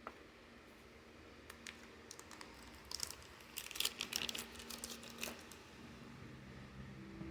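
A DVD and its plastic packaging being handled: plastic crinkling and scattered sharp clicks, busiest in the middle.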